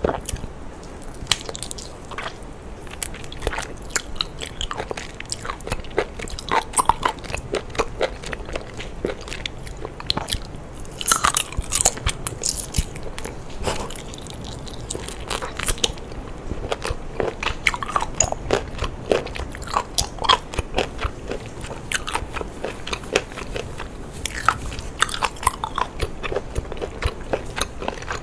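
Biting and chewing a cooked octopus tentacle: many short, irregular chewing clicks, busiest about eleven seconds in.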